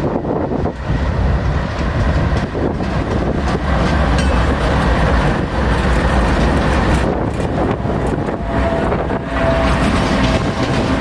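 Freight train rolling past, a loud steady rumble of wheels and cars on the rails, with a thin steady whine coming in about eight seconds in.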